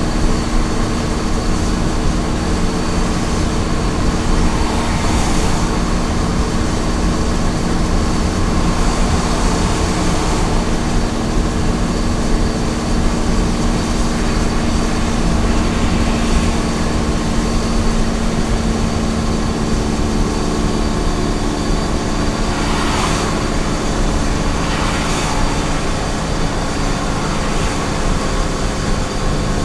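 Small truck's engine running steadily at highway cruising speed, with a constant steady hum and road noise. Two short rushing sounds come through a little past two-thirds of the way in.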